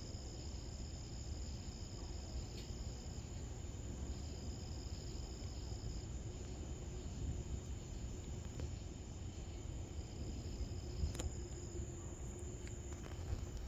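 Crickets trilling at night in long, steady high-pitched stretches of a few seconds each, over a constant low rumble, with a sharp click about eleven seconds in.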